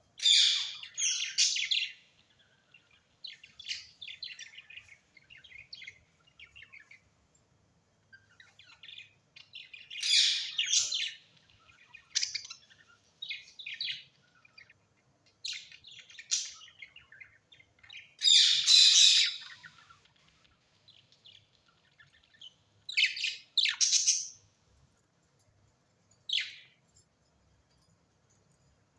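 Birds chirping and calling in short bouts of rapid, high-pitched chirps, with quiet gaps between. The loudest bouts come right at the start, about ten seconds in and about nineteen seconds in.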